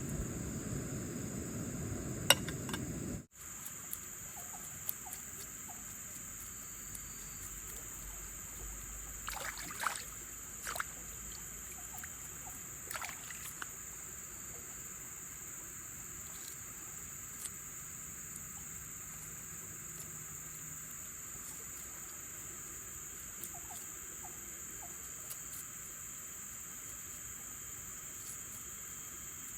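A steady, high-pitched chorus of insects, with a few light clicks and taps. A low rumbling noise underneath stops abruptly about three seconds in.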